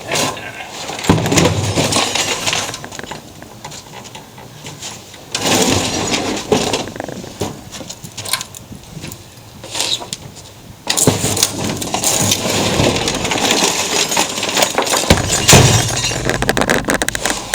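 A big-screen projection TV being smashed apart with a sledgehammer: crashing and breaking of glass and plastic with clattering debris, in three bouts starting about a second in, about five seconds in and around eleven seconds in. The last bout runs longest.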